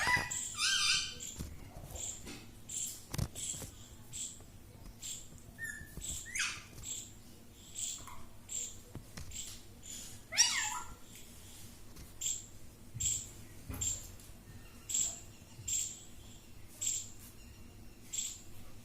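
Rose-ringed (ringneck) parakeet calling: a few falling squawks, then a steady run of short, sharp, high chirps about once a second.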